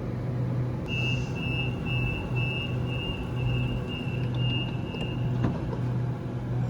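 Door-closing warning beeps of a stationary Sydney Trains Waratah (A-set) train: a high beep about twice a second for roughly four seconds, starting about a second in, over the train's steady hum.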